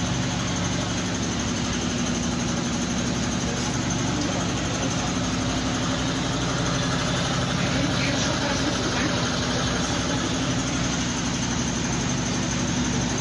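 Electrolux LQ11 washing machine running through a duvet wash, a steady motor hum with a noisy churning wash over it and no pauses.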